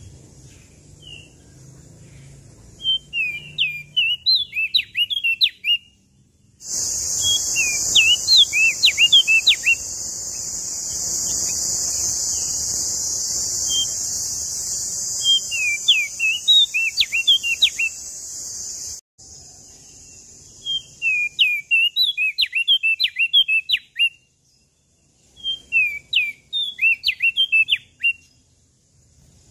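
Prenjak daun lombok (leaf warbler) singing: short phrases of quick, rising-and-falling whistled notes, repeated about seven times with pauses between. From about a quarter of the way in to about two-thirds of the way through, a loud steady high-pitched hiss runs under the song, then cuts off suddenly.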